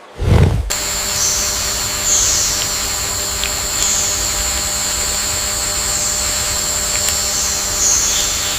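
Steady high-pitched buzzing drone. It starts under a second in and cuts off near the end, with a few faint ticks.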